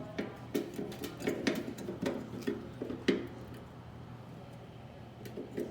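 Irregular light clicks, taps and knocks of metal parts and tools being handled inside a microwave oven during magnetron removal or refitting, with one sharper click about three seconds in.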